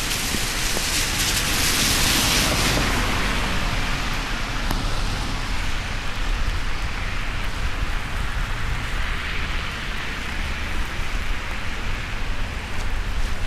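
Steady hiss of falling rain, swelling louder for the first few seconds and again more gently later, over a low rumble.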